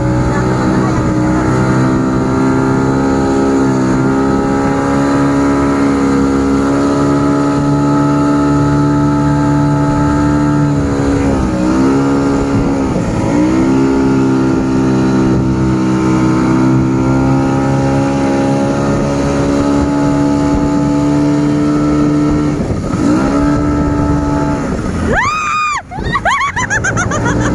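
Motorboat engine running steadily at speed, its pitch dipping briefly a few times as the throttle eases and picks up again. Near the end, a short sweeping noise and a sudden drop in level break in.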